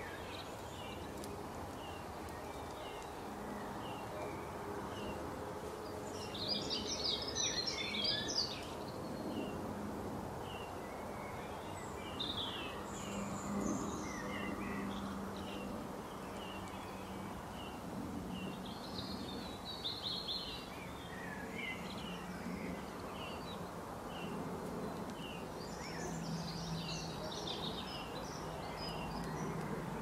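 Birds singing in steady outdoor background noise: a short high chirp repeats about twice a second throughout, and bursts of busier twittering song come in four times.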